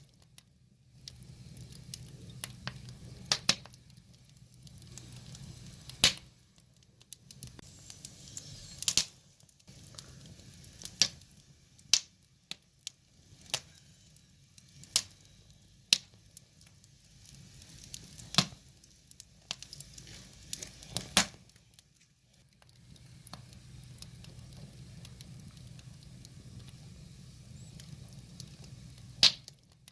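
Burning firewood crackling, with sharp pops of splitting wood scattered irregularly, about a dozen loud ones.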